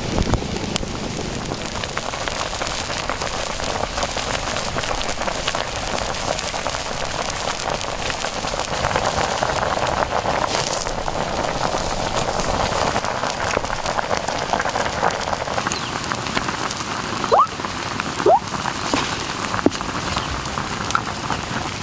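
Steady crackling hiss of chicken cooking over an outdoor fire, full of small dense pops. Three short rising squeaks come near the end.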